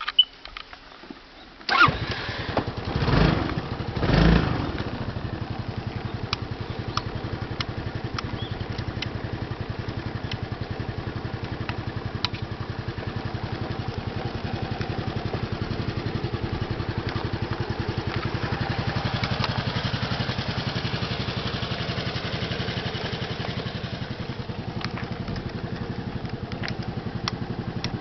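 Honda Fusion XSE (MF02) scooter's single-cylinder engine starting up about two seconds in, revved twice, then settling into a steady idle.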